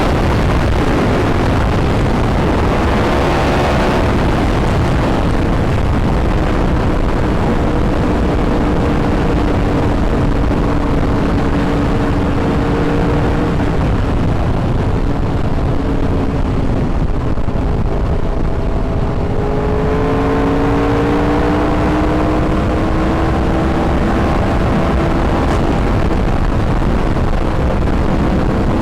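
Yamaha R1 sportbike's inline-four engine running under way, over a constant rush of noise. Its pitch climbs briefly early on, holds steady, then rises slowly over the last third as the bike accelerates.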